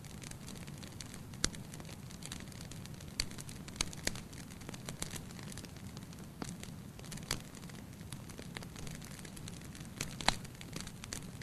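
Wood fire burning in a fireplace: a steady low rush of flames under frequent sharp crackles and pops, the loudest pop near the end.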